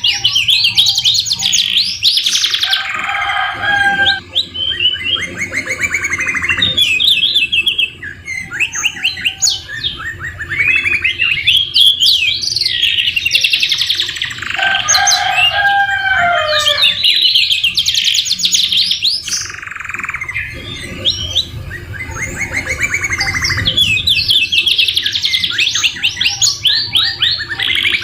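Domestic canaries singing a continuous song of rapid trills and rolls, with lower whistled phrases copied from the white-rumped shama mixed in.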